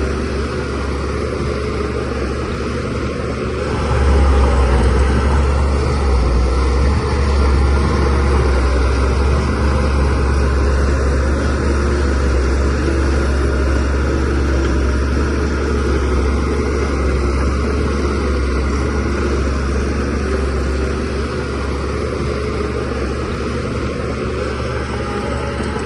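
DH17C3PRO bulldozer's diesel engine running steadily with a deep drone, growing louder about four seconds in.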